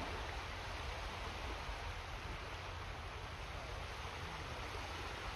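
Steady outdoor rushing noise with a low rumble underneath, even throughout with no distinct events.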